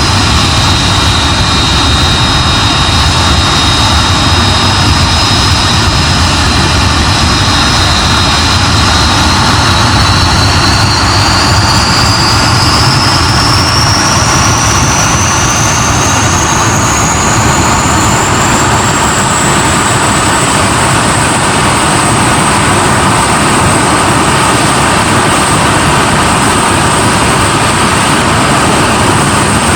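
Hawker Hunter's jet engine running on the ground, a loud steady rumble under a high whine; about a third of the way in the whine rises in pitch over some ten seconds as the engine spools up to higher power, then holds steady.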